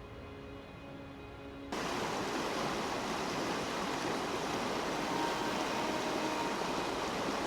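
Background music, joined about two seconds in by the steady rush of a waterfall that cuts in suddenly and stays louder than the music.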